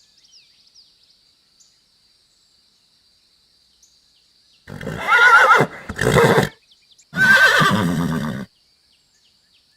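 A horse whinnying: three loud, shaky neighs in quick succession starting about halfway through, after a few quiet seconds.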